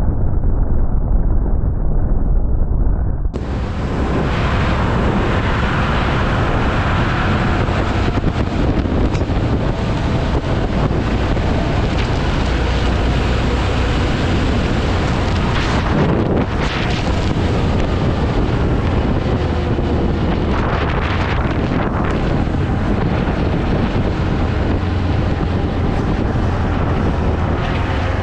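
Wind rushing over the microphone of a moving motorcycle, with the engine faintly heard underneath, its pitch gliding up and down. The sound changes abruptly about three seconds in, from muffled to full and bright.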